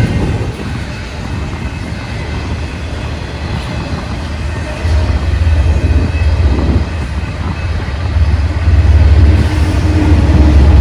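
A train passing, with a steady deep rumble that grows louder about halfway through and again near the end.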